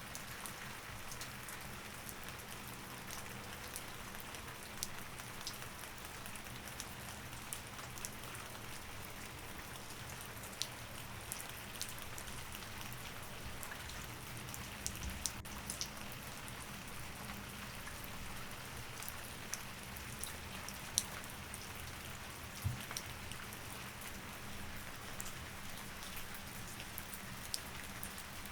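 Steady rain, with many scattered sharp drops pattering on a surface, over a faint steady low hum.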